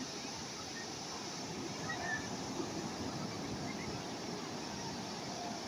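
Calm sea waves washing steadily on the shore, an even rushing wash without breaks, with a few faint brief high sounds over it.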